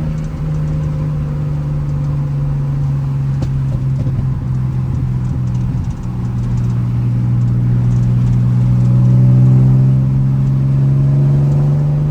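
TVR Speed-Six 4.5-litre straight-six engine running under load as the car is driven, a steady engine note. About halfway through it briefly drops, then the note climbs and grows louder toward the end as the revs rise.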